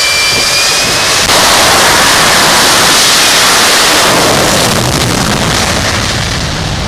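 Extreme Machine jet truck's jet engine running at full thrust: its high whine gives way about a second in to a sudden, louder steady roar, which eases off near the end.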